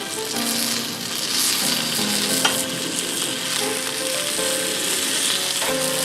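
Food sizzling and frying in a pan, a steady crackling hiss, with occasional stirring.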